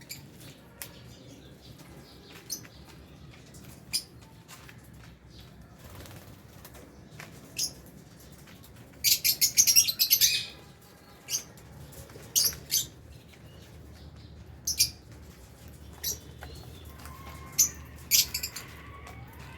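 Lovebirds in an aviary giving short, sharp high chirps and flapping their wings now and then, with a dense flurry about nine seconds in.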